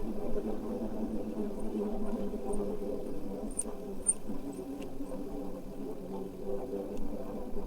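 Steady rolling rumble and rattle of an e-bike riding along a road, with a few faint ticks.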